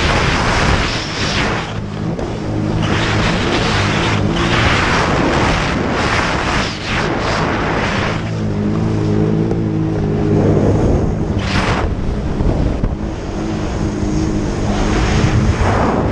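Jet ski engine running at a steady hum that shifts in pitch partway through, with repeated bursts of rushing noise over it.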